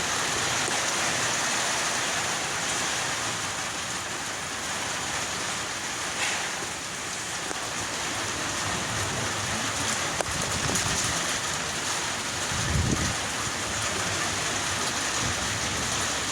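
Steady rain falling in a thunderstorm, an even hiss, with a brief low rumble about thirteen seconds in.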